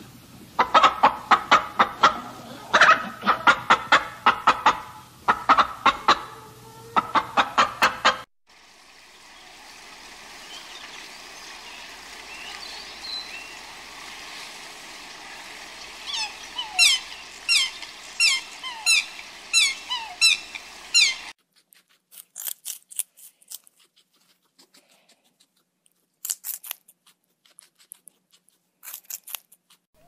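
A flock of chickens clucking for the first eight seconds or so. Then a steady hiss, with a run of short, falling honking calls from waterfowl repeating about twice a second for some five seconds, and a few faint scattered chirps near the end.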